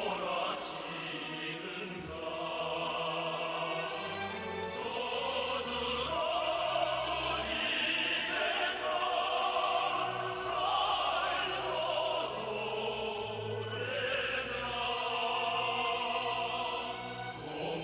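Opera-style orchestral music with voices holding long sustained notes, changing pitch every second or two.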